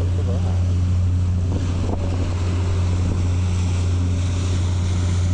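Passenger ferry's engine running with a steady low hum, with wind and water noise over it.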